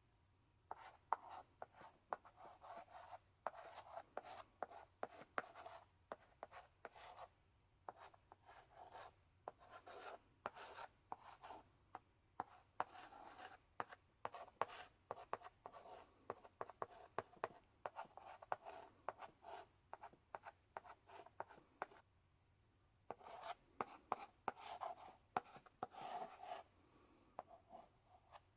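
Chalk in a chalk holder writing on a blackboard: short scratching strokes and sharp taps in quick bursts, with brief pauses about twelve seconds in and again around twenty-two seconds.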